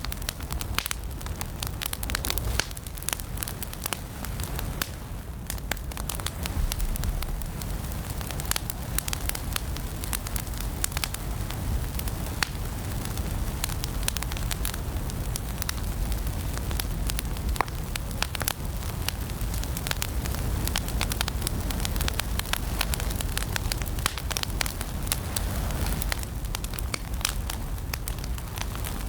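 Wood fire in a fireplace crackling, with many sharp pops and snaps over a steady low rush of the flames.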